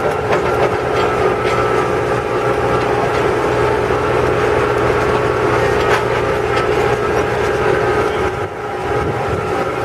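Farm tour truck driving along, its engine running steadily with a constant hum and drone, and the ride rattling with scattered faint clicks.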